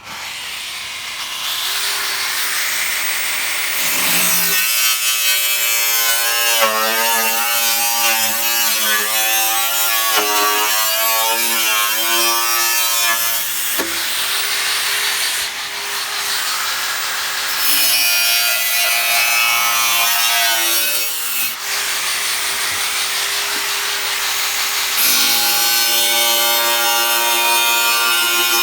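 Power tool cutting through the heat-damaged steel of a wood gasifier, starting abruptly and running steadily, with the metal ringing in wavering tones as it is cut.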